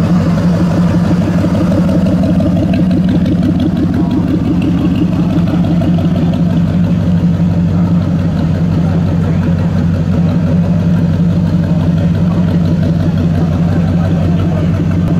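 Chevrolet Corvette C3's V8 running at a steady low idle through its side-exit exhaust pipes as the car rolls slowly past.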